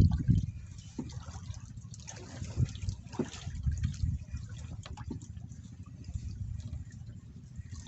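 Water splashing and lapping, with an irregular low rumble of wind on the microphone and scattered small knocks.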